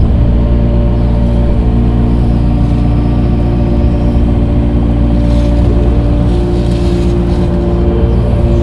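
Diesel engine of a dirt-moving machine running steadily under working load while slinging dirt. A higher steady tone joins the engine about six seconds in.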